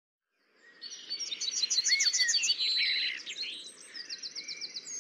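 Several birds chirping and singing together, with quick trills of repeated high notes; the sound fades in about half a second in.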